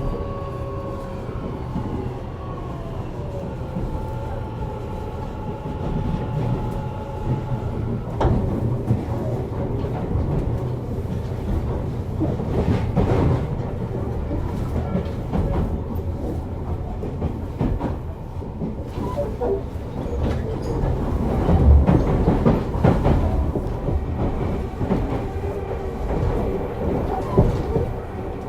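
Tobu 50050 series electric train heard from inside a passenger car while running. Over the first four seconds a motor whine of several tones falls in pitch as the train slows. Then a steady rumble follows, with wheels clicking and clattering over rail joints and points.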